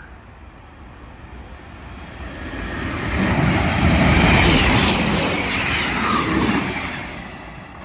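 Two coupled Class 158 diesel multiple units passing through, the engine and wheel noise swelling to a peak about four to five seconds in and then fading as the train draws away.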